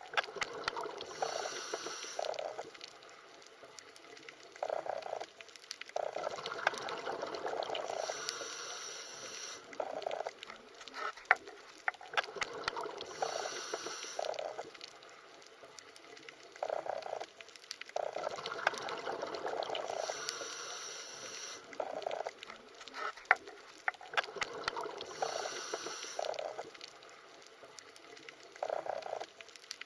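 Underwater ambience: bubbling, gurgling water with scattered sharp clicks, swelling and fading in a cycle that comes round every six seconds or so.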